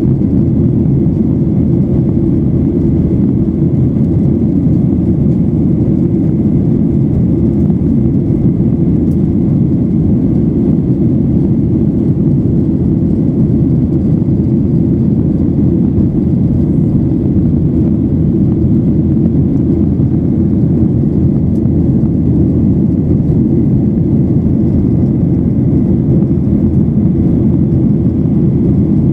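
Steady cabin noise of a Boeing 737-800 in flight: an even low rush of airflow and CFM56 engines, with a faint thin high tone above it.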